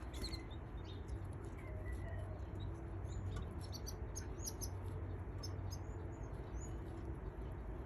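Baby canaries cheeping: many short, high squeaks in quick irregular succession, over a steady low background hum.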